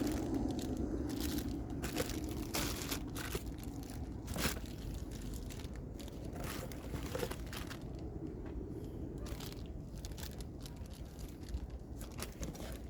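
Irregular clicks, scrapes and crinkling from hands working with tools and parts on the engine, over a low steady background rumble.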